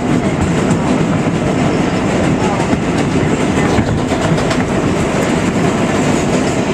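A 7 express subway train running at speed, heard from inside the car: a steady rumble of wheels on track, with clacking over rail joints.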